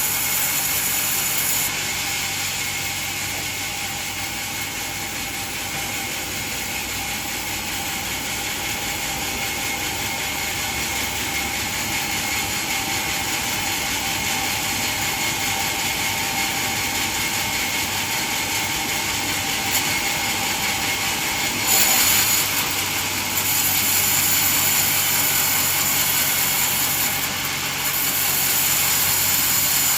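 Band sawmill running and sawing coconut wood: a steady machine noise with a high whine that gets louder about two-thirds of the way through.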